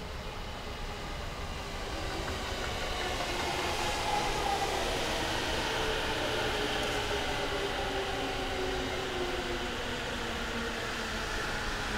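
JR East E231 series electric commuter train pulling into the station, wheels running on the rails with a faint whine from its inverter-driven traction motors that slowly falls in pitch as it slows. It grows louder over the first few seconds as the train comes alongside.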